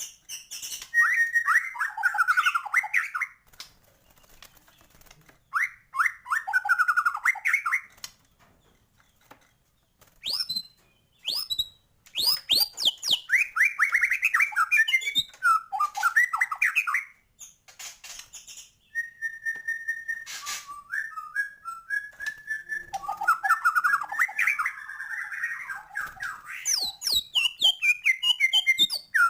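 White-rumped shama singing in full voice: bursts of rapid, varied phrases of whistles, trills and harsher notes, separated by pauses of a second or two. This is a shama 'gacor', singing freely and often, its song full of mimicked fills of other birds.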